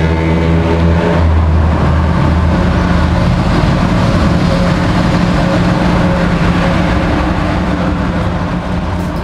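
High-speed train passing directly below: a steady low hum under a loud rushing noise from wheels and air that builds about a second in and eases slightly near the end.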